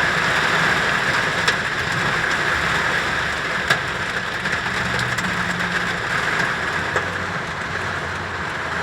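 Steady rain falling during a thunderstorm, an even hiss with a low rumble underneath and a few sharp drop impacts.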